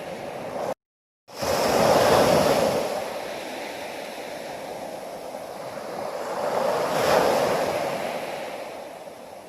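Ocean waves washing onto a shore, two swells about five seconds apart. The sound cuts out completely for about half a second shortly after the start, then returns with the first wave.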